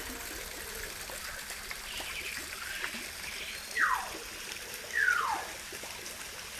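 Water trickling steadily, with a bird giving two loud whistles that each fall steeply in pitch, about a second apart a little past halfway, and fainter chirps just before them.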